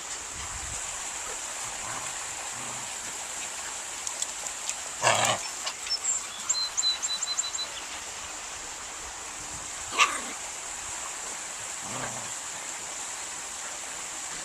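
Eight-week-old puppies and their mother dog at play, giving a few short barks and yips; the loudest comes about five seconds in, with a shorter one near ten seconds.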